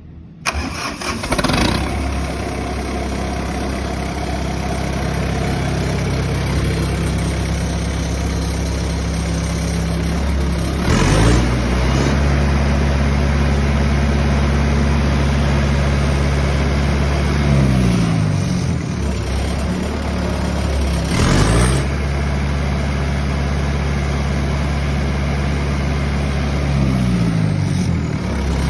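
Kubota V3600T four-cylinder turbo diesel starting up and then running steadily. Its note changes a few times: short louder surges near the middle and about two-thirds of the way through, and falling glides in pitch.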